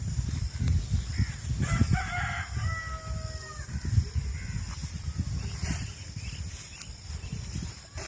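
A rooster crowing once, about two seconds in, in one held call that drops at the end, over a low rumbling noise.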